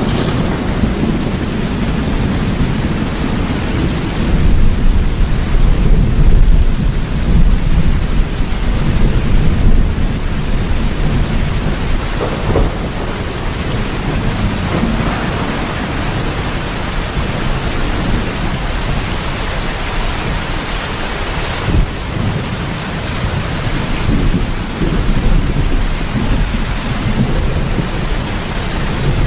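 Steady heavy rain with deep rolling thunder rumbling beneath it, the rumble swelling louder from about four seconds in until about ten seconds in.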